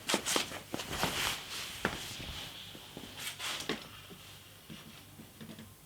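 Scattered light clicks, knocks and rustles of items and packaging being handled, busiest in the first two seconds with a few more about three seconds in, then fading to faint handling noise.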